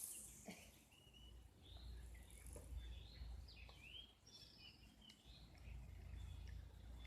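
Faint birdsong: many short chirps and sweeping calls from several birds, over a low steady rumble.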